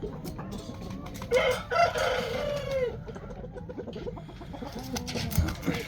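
Young Shamo rooster crowing once, a crow of about a second and a half that drops in pitch at the end. A few knocks follow near the end.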